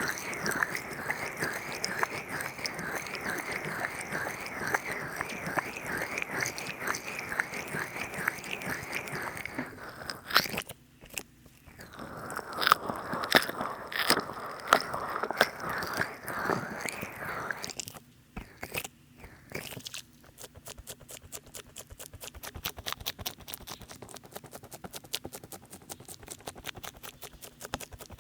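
Heavily oiled hands rubbing and squishing right at a binaural microphone in an oil-massage ASMR, a dense, sloppy wet squelching from having put on too much oil. It breaks off about ten seconds in, returns for several seconds, and near the end gives way to quieter, rapid fine crackling taps.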